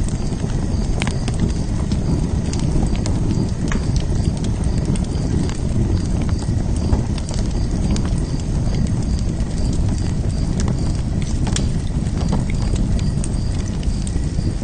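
Wood fire in a fire pit burning with a steady low rumble and scattered sharp crackles and pops.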